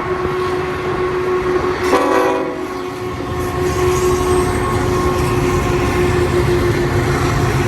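BNSF diesel freight trains passing close, a steady rumble of locomotives and cars that grows heavier about three seconds in. A short horn blast sounds about two seconds in.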